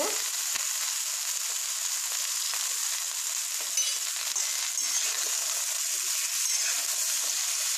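Cut vegetables frying in mustard oil in a metal kadai: a steady sizzle. A metal spatula stirs them around six seconds in.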